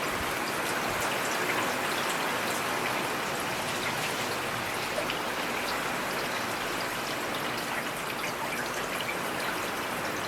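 Steady rain falling, an even hiss with scattered individual drops ticking sharply.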